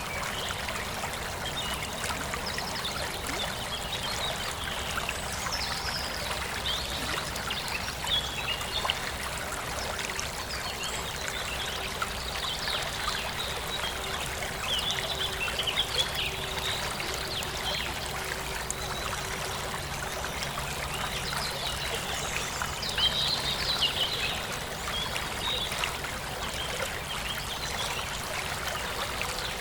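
Forest stream flowing and trickling steadily, with birds chirping at intervals over the water, busiest about halfway through and again near the end.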